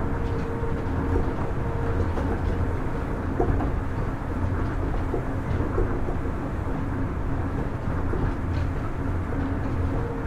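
Kitakyushu Monorail Series 1000 car, refurbished with Hitachi IGBT-VVVF traction inverters, running between stations: a steady low rumble from the running gear with faint steady tones from the traction equipment.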